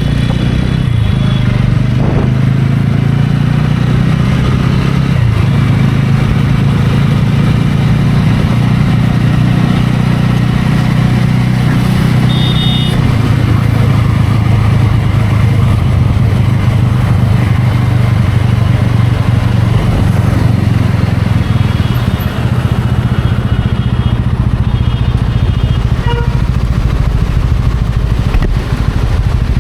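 TVS Ronin's single-cylinder engine running steadily while riding at a fairly even pace.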